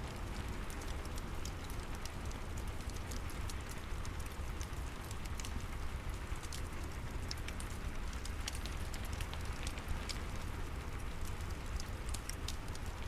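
Steady rain with scattered sharp crackles of a wood fire in a fireplace over a low rumble.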